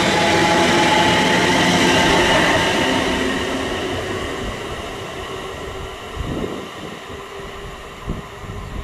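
A train passing and moving away: a loud rush of wheels on rail with several steady tones that slip slightly lower in pitch, fading from about three seconds in. A few short low thumps come near the end.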